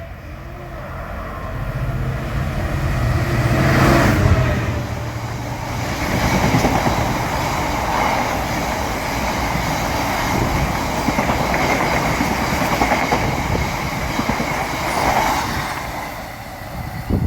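A diesel train passing: its engine note builds to the loudest point about four seconds in, then wheels run steadily on the rails for about ten seconds before fading near the end.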